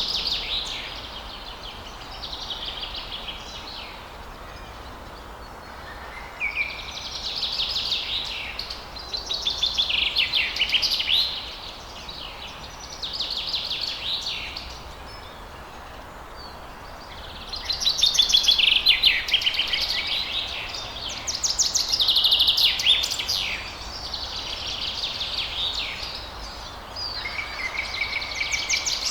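Songbird singing, phrase after phrase of rapid high chirps and trills, each a second or two long with short pauses between, over a faint steady background hiss.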